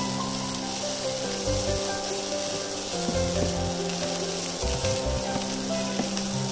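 Mashed shark fish (sura puttu) sizzling in a frying pan as it is stirred with a wooden spatula, dry-frying until the fish's moisture cooks off. Background music with sustained notes plays over it.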